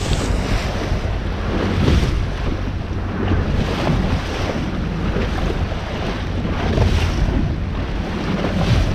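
Strong wind buffeting the microphone in uneven gusts, over the wash of sea water around a boat.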